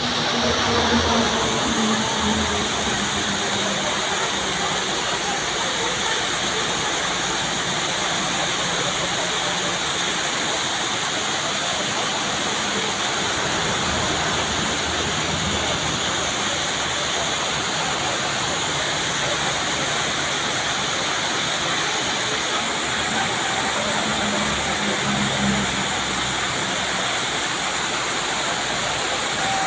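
Waterfall: a steady, even rush of falling water that doesn't let up.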